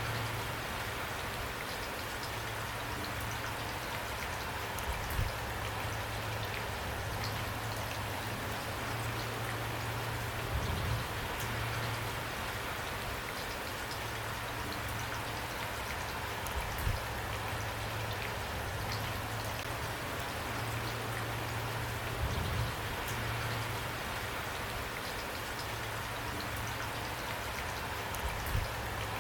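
Steady rain falling, an even hiss of drops with scattered individual drop ticks, and a brief low thump now and then, about every six seconds.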